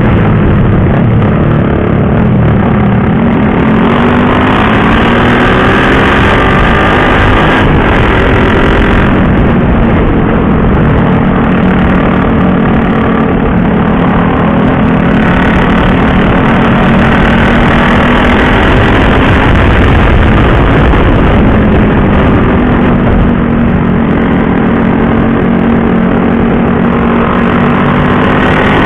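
KTM RC 390's single-cylinder engine being ridden through the gears, its pitch rising and falling with the throttle, under heavy wind rush on the microphone.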